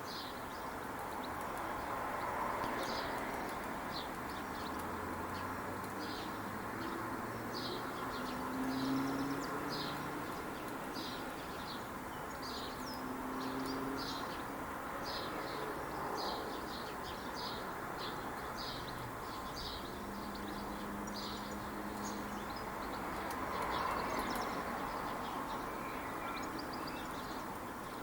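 Small garden birds chirping in short, high calls, sometimes several a second, over a steady background of outdoor noise, with a few low drawn-out tones.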